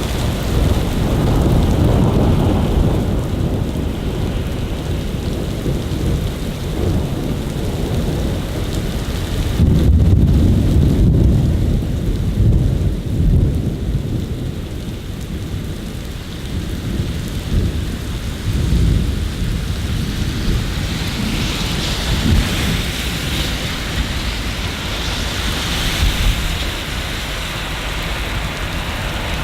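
Steady rain falling over a city with rolling thunder, the rumble swelling twice, about a second in and again about ten seconds in.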